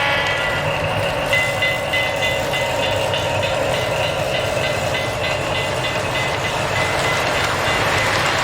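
Postwar Lionel model train with Santa Fe diesel engines running slowly around the track, with a steady motor hum and rumble of wheels on rail. From about a second in, a high tone pulses about three times a second.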